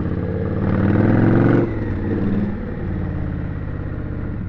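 Indian Scout's V-twin engine running, revving up briefly about a second in, then dropping back abruptly to a steady low running.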